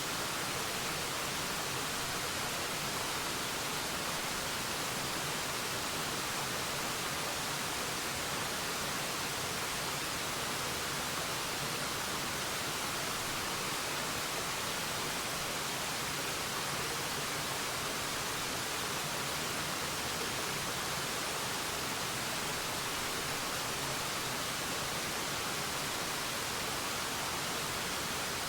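Waterfall: a steady, unchanging rush of falling water, more hiss than rumble.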